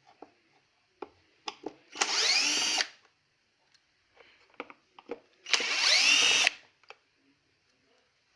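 Cordless drill-driver running in two bursts of about a second each, backing out the screws that hold a vacuum cleaner's motor in place. Small clicks and knocks of handling the parts come between the bursts.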